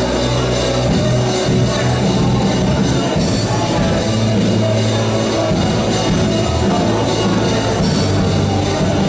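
Worship band playing a song, with a drum kit and sustained low bass notes that change every second or two.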